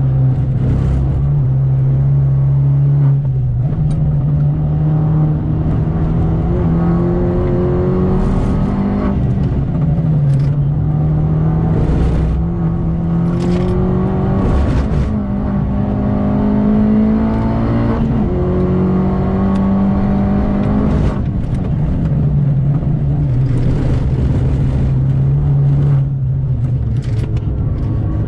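Mini Cooper S R56's 1.6-litre turbocharged four-cylinder driven hard on track, heard from inside the cabin. The engine note climbs several times as the car accelerates and drops back between climbs, with a few short sharp bursts of noise. It settles lower near the end as the car slows.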